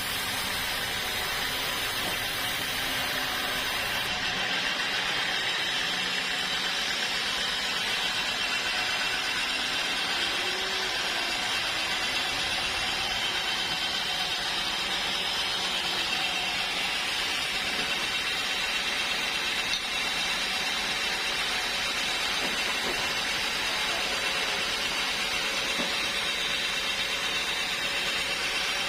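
Sawmill saw running steadily through teak wood, a continuous machine noise with a steady high whine.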